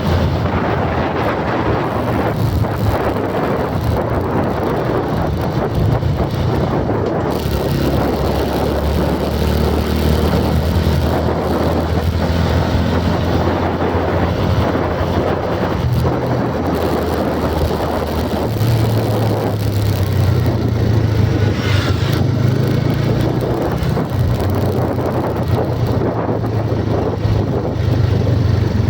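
A motor vehicle running steadily: a continuous low engine drone mixed with road and wind noise, its pitch shifting slightly higher about two-thirds of the way through.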